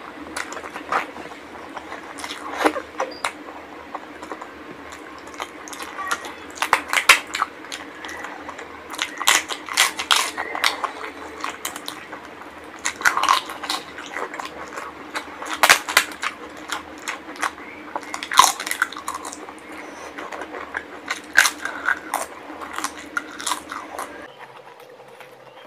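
Close-miked eating: wet chewing, lip smacks and crunching as rice, curry and fried papad are eaten by hand, in irregular bursts of sharp clicks. Under them runs a steady low hum that cuts off near the end.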